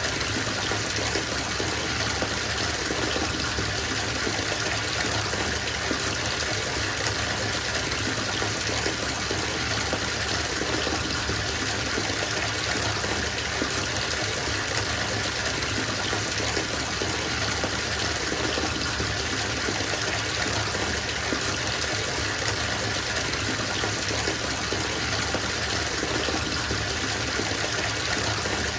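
Bathtub being filled from its tap: water gushing steadily into the tub as a constant, even rush.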